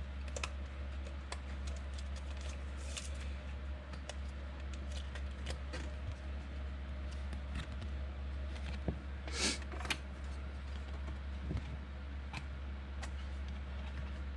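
Football trading cards being handled and flipped through by hand: scattered light clicks and slides of card stock, with one longer brushing sound about nine seconds in, over a steady low electrical hum.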